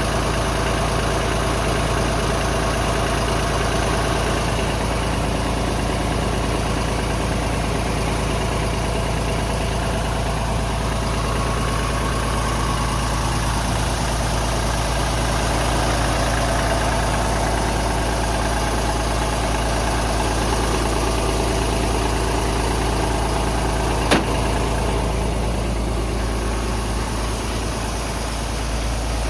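Mercedes-Benz Actros 1843 tractor unit's diesel engine idling steadily, with one sharp click near the end.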